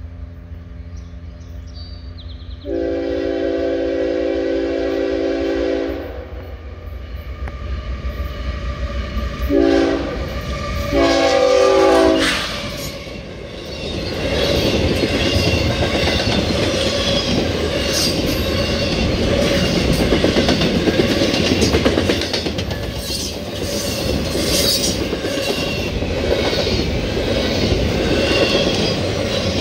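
CSX diesel freight locomotive approaching with a low engine rumble and sounding its chime air horn: a long blast about three seconds in, then a short blast and a longer one around ten to twelve seconds. From about fourteen seconds the double-stack train passes close by, loud and steady, its wheels clicking over the rail joints.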